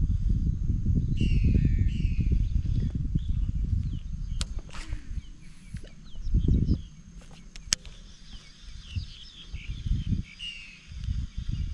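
Small birds chirping in short, quick calls over a heavy low rumble on the microphone, which eases off mid-way and returns near the end. Two sharp clicks come about four and a half and eight seconds in.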